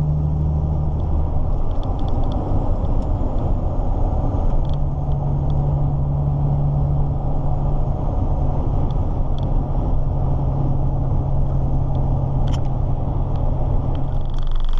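A lorry's diesel engine running at cruise with road noise, heard from inside the cab of a moving truck. A low, steady engine tone sits under the rumble; it drops away a second or two in and comes back about five seconds in.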